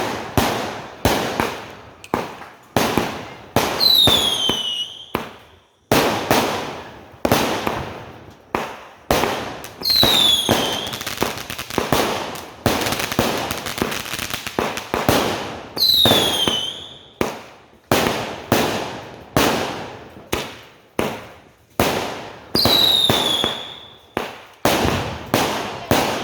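A 39-shot fireworks cake, army-made Vietnamese Tet fireworks, firing shot after shot at about one a second or a little faster, each launch a sharp pop that fades out. Four of the shots carry a falling whistle, and there is a stretch of dense crackling about halfway through.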